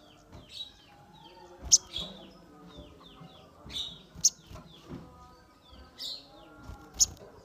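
Caged sogon calling: a run of short chirps, with three loud, sharp high calls spaced about two and a half seconds apart and softer warbling notes beneath.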